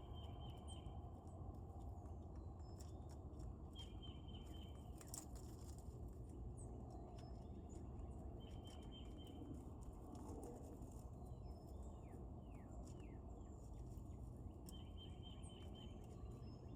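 Wild songbirds calling: a short, level trill sung four times several seconds apart, with quick falling chirps between. A steady low rumble runs underneath, and there are a few sharp clicks.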